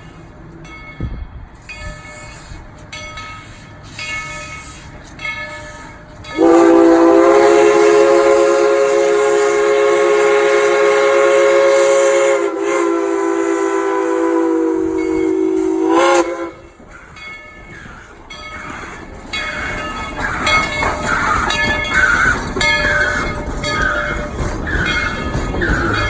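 Steam locomotive's whistle blowing one long blast of about ten seconds, several notes sounding together as a chord. Before it comes a ringing repeated at an even pace, and after it the train's running sounds.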